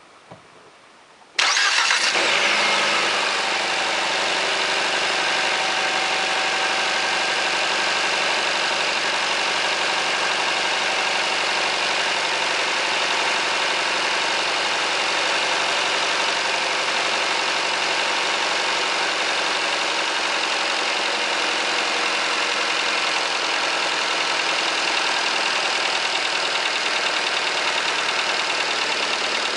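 Nissan MR20DE 2.0-litre inline-four starts cold about a second and a half in, with a brief louder burst, then idles steadily. Near the end, as the idle settles, a distinct knock comes in; it shows only at about 1000 rpm.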